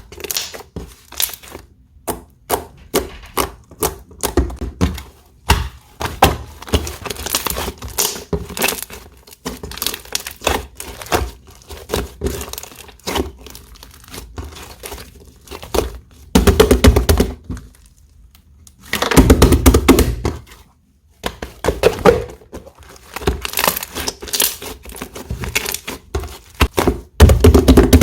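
Hands playing with slime: a rapid run of sticky clicks and small pops as it is poked and folded, with a few louder, longer squishing presses in the second half.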